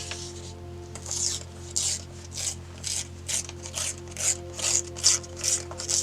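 Quick back-and-forth rubbing strokes on paper, about two to three a second, starting about a second in.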